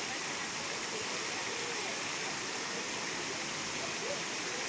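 Water falling steadily from a street fountain's cascade, an even, unbroken splashing.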